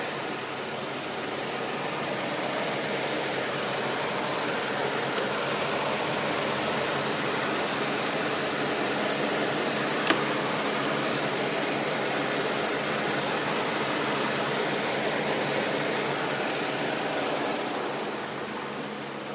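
GM RamJet 350 V8 in a K5 Blazer off-road truck idling steadily, with a single sharp click about ten seconds in.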